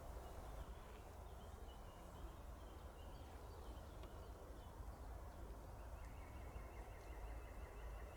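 Quiet forest ambience: faint bird calls, with a rapid trill starting about six seconds in, over a steady low rumble.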